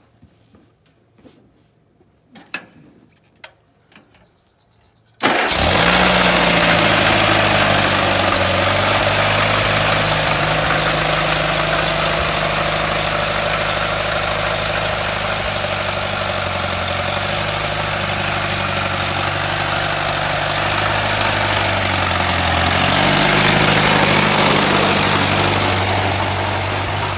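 1939 Allis-Chalmers Model B tractor's four-cylinder engine catches about five seconds in and runs steadily. It speeds up briefly near the end, then settles back. Before the start there are a few faint clicks and knocks.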